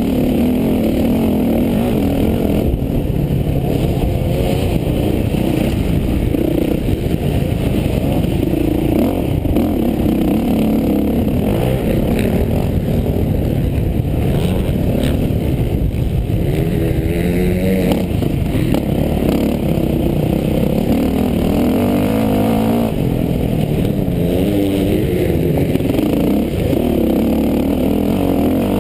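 Motocross bike engine under race throttle, heard from the rider's onboard camera, its pitch rising and falling as the throttle is worked, with a run of quick rising revs around the middle.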